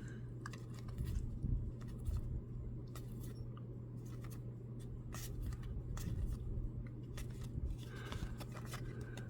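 Soft, scattered clicks and scrapes of baseball trading cards being flipped and slid one behind another through a pack, over a steady low hum.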